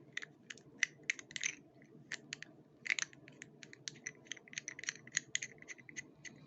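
Small parts of a microphone mount and adapter clicking and tapping against each other as they are handled and fitted by hand: a quick, irregular run of sharp little clicks, several a second, over a faint low hum.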